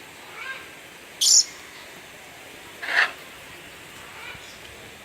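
Parrots giving two short screeching calls about two seconds apart, the first very high, the second lower.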